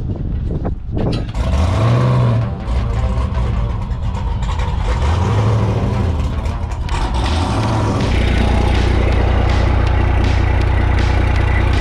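A large vehicle engine revs up and drops back in a few short rises, then settles into a steady low-pitched run.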